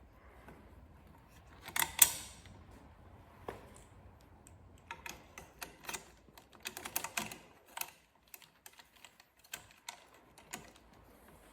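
Hand work on a motorcycle auxiliary light's metal mounting bracket: scattered clicks and clinks of metal parts and fittings being handled and lined up, with a sharp double clack about two seconds in and a run of quick clicks a few seconds later.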